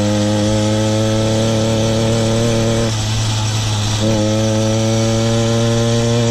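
Small petrol engine of a kit-built motorised bicycle running at a steady pace with a slowly rising note. About three seconds in it loses its even note for roughly a second, then picks up again.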